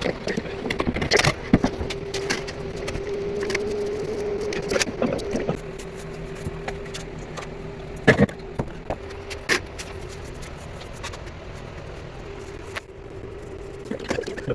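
A steady mechanical hum, like a small motor running, under scattered scrapes, clicks and knocks, two of them sharper about a second in and about eight seconds in.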